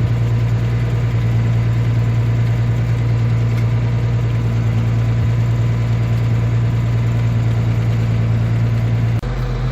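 Tractor with a silage feed mixer running steadily, a loud, even hum. Near the end the hum drops abruptly to a lower, quieter note.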